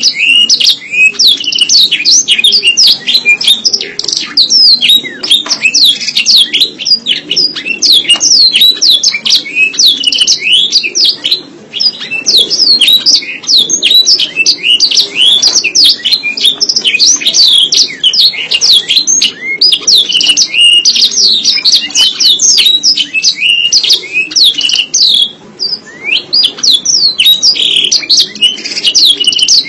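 Domestic canary singing a long, fast, unbroken song of high trills and chirps, breaking off briefly twice.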